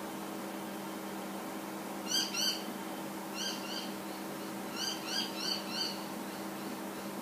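A bird calling in short, arched chirps: a pair, then a single one, then a quick run of four, over a steady low hum.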